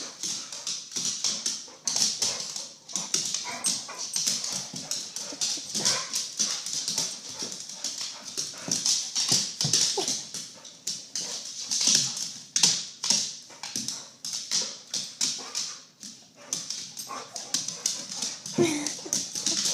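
Pit bull-type dogs whimpering and moving about, with many quick taps and clicks and a brief pitched whine near the end.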